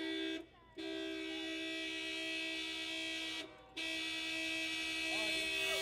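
Car horn held down in long, steady two-note blasts, with two brief releases: a stalled car on railroad tracks honking to warn an approaching train.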